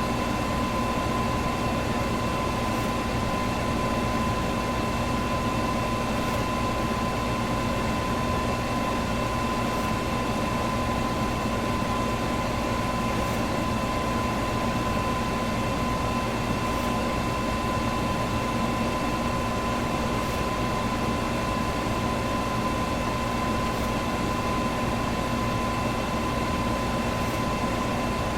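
Electric fan running steadily, a constant rush of air with a steady hum. A faint high tick recurs about every three and a half seconds.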